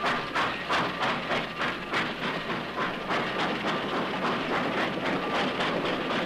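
A rail train running past, its wheels clicking over the rail joints in a quick, regular rhythm of about three clicks a second that blurs together later, over a steady rumble.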